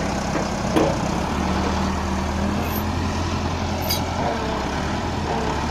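Diesel tractor engine running steadily, its low note getting slightly stronger about a second and a half in, with a short knock just under a second in.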